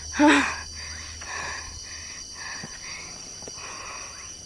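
A short voiced sound from a person about a quarter of a second in, then a low, steady background with a faint high hum.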